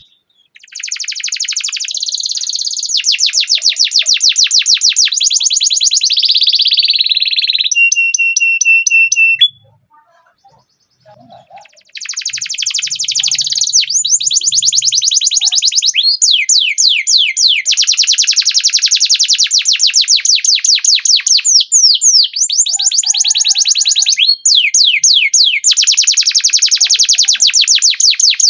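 Domestic canary singing long rolling trills of rapid repeated notes. A held whistled note comes about eight seconds in, then a pause of about two seconds. The trills then resume, with quick sweeping notes mixed in.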